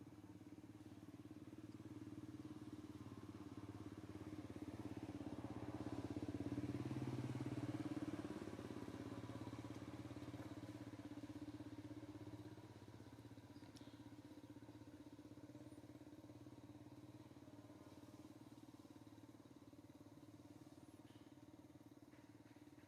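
Faint engine hum that grows louder, peaks about seven seconds in, and fades back by about twelve seconds, the pattern of a motor vehicle passing.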